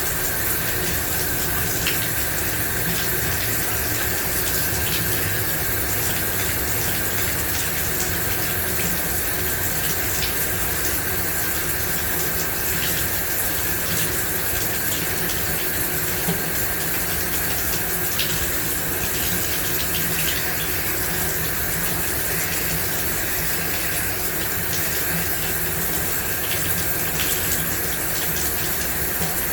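A running shower: an even, steady hiss of water spray striking a hard surface, with small droplet ticks scattered through it.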